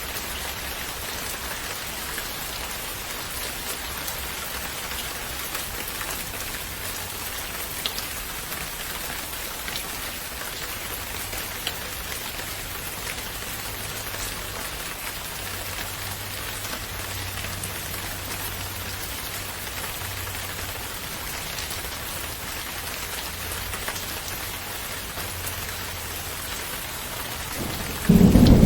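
Steady rain falling, an even hiss with scattered individual drop ticks. Near the end a loud rumble of thunder breaks in.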